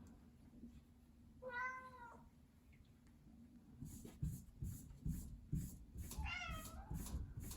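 A domestic cat meowing twice, a short call about a second and a half in and a longer, falling one near the end. From about halfway, a run of light taps about three a second goes on under the second meow.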